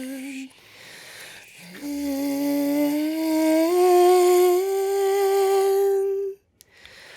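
A woman humming: a held note ends just after the start, then a long wordless line begins about two seconds in and climbs slowly upward in small steps before stopping about six seconds in.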